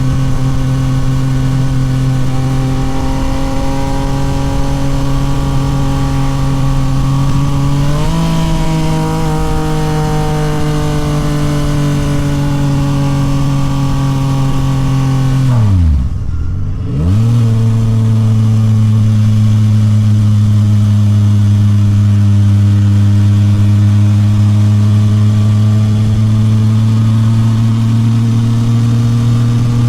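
Yamaha MT-09 SP's inline-three engine running through a Toce full exhaust while riding. It holds a steady note, jumps up in pitch about eight seconds in and slowly falls away, then drops sharply and briefly dips in loudness around halfway before settling into a steady, slowly rising note.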